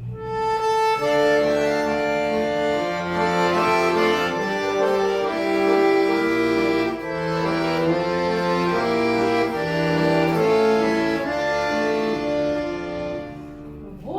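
Accordion playing the instrumental introduction to a Russian folk-song arrangement, in held chords that change about once a second.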